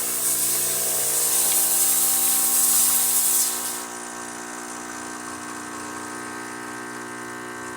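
Rancilio Silvia espresso machine's vibratory pump humming steadily while pulling a test espresso shot, with a loud hiss over it that stops about four seconds in.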